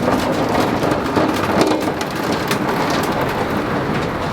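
Hail and heavy rain pelting the aluminium shell of an Airstream travel trailer: a steady loud hiss of rain with many sharp ticks of hailstones striking the metal.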